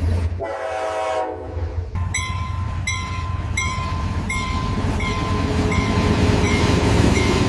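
AI-generated train sounds: a train horn sounds briefly at the start. A railroad crossing bell then strikes about every 0.7 seconds over the low rumble of a passing train, which grows slightly louder toward the end.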